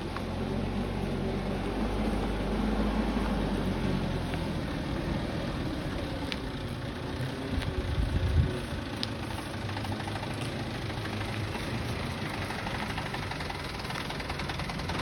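Truck engine running steadily at low revs, with a brief louder swell about halfway through.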